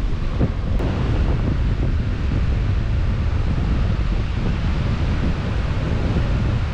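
Wind buffeting the microphone in continuous gusts, over a steady wash of sea waves.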